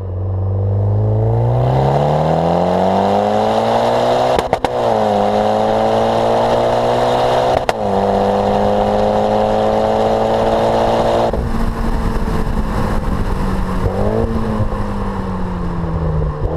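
Mitsubishi Lancer Evolution X MR's turbocharged four-cylinder running through a catless turbo-back Milltek exhaust, accelerating hard with the revs climbing. There are two quick upshifts, about four and a half and about seven and a half seconds in. The throttle lifts about eleven seconds in, leaving a softer, steadier engine note with a short rev blip near the end.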